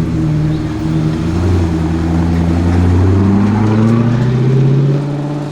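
Alfa Romeo 8C Spider's 4.7-litre V8 engine and exhaust running under steady load, the note climbing slowly in pitch and getting louder, then easing off near the end.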